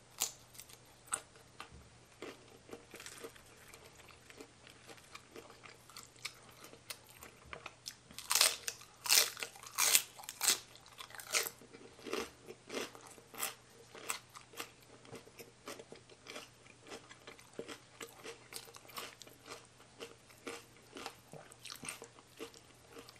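A person chewing and crunching a mouthful of shrimp and spicy mixed salad. The crunches come in quick, uneven bites and are loudest about eight to eleven seconds in.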